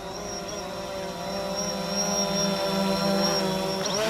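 Multirotor drone flying overhead: a steady propeller buzz with a thin high whine, growing louder over the first couple of seconds.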